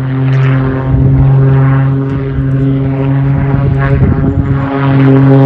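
Propeller-driven aerobatic aircraft's piston engine running at high power, a steady buzz that swells about a second in and again near the end as the plane manoeuvres.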